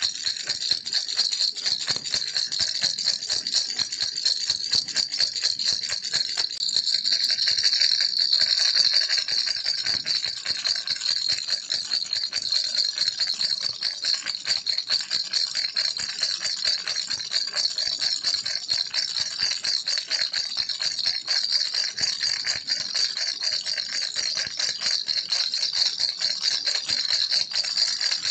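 Baby rattle (kiliki) shaken continuously, a dense stream of fast, bright clicking and jingling with no pause.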